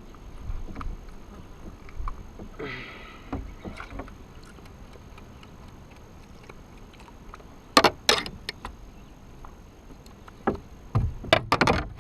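Sharp knocks and clatters aboard a fishing kayak over a low background hiss: one pair about two-thirds of the way through, then a quick cluster near the end.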